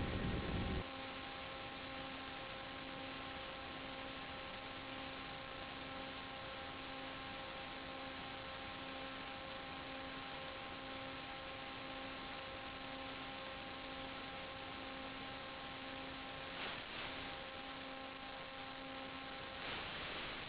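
Steady electrical hiss with a faint hum of several steady tones. A louder low rumble cuts off about a second in.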